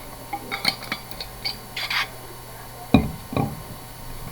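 Short scratchy strokes of writing, then two dull knocks about three seconds in, over a steady low hum.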